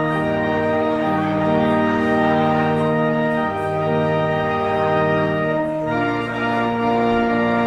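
Organ playing slow, sustained chords, shifting every second or two, with a clear change of chord about six seconds in.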